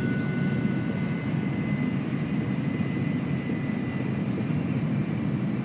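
Steady running noise inside an N700A Shinkansen car at speed: an even low rumble, with a faint high whine that fades out about four seconds in.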